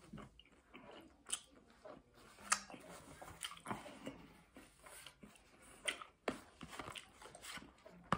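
A person chewing a mouthful of food close to the microphone, with irregular wet mouth clicks and soft crunches; the sharpest click comes about two and a half seconds in.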